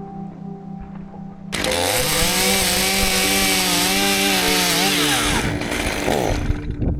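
Two-stroke chainsaw revving up suddenly about a second and a half in, running at full throttle for a few seconds, then dropping back off.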